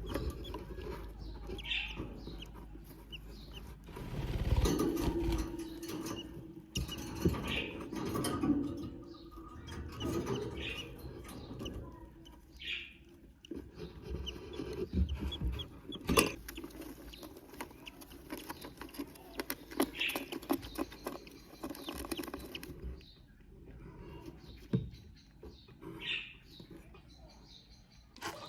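Newborn budgerigar chicks cheeping now and then in short high peeps, with rustling, scratching and light knocks in the nest; the rustling is loudest about four seconds in.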